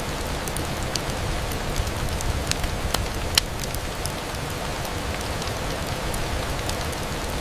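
Steady rain falling, a continuous hiss with scattered sharp clicks of drops. One click, about three and a half seconds in, is louder than the rest.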